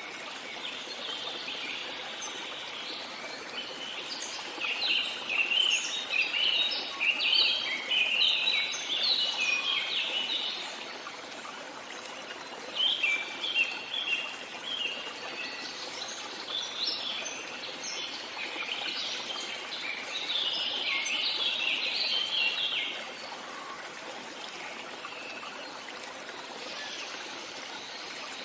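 A stream running with a steady rush, and songbirds singing in long bursts of quick, high chirping notes, twice for several seconds with a short burst between.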